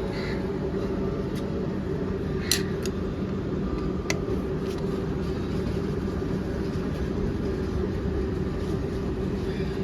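Steady low mechanical hum and rumble with a constant tone, broken by a few short, light clicks in the first half.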